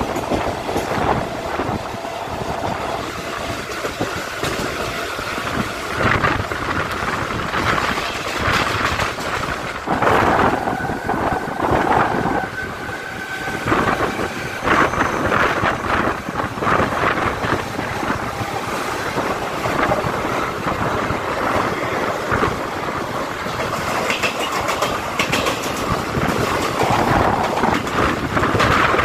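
Mumbai suburban electric local train running at speed, heard from its open doorway: steady rumble of wheels on rail with frequent clacks over rail joints. A brief steady whine sounds about ten seconds in, and the sound grows louder near the end as another local train runs close alongside.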